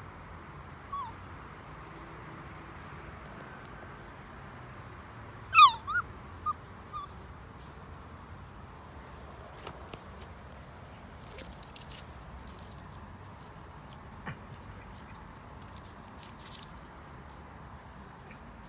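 Dog whining: one sharp high whimper about six seconds in that falls in pitch, followed by a few short whines. Faint high chirps and rustling noises follow later.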